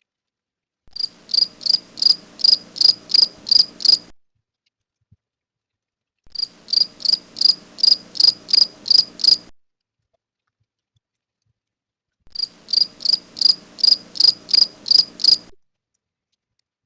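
House cricket (Acheta domesticus) chirping, a male's calling song: three bouts of about ten evenly spaced chirps, roughly three a second, with a few seconds of quiet between bouts.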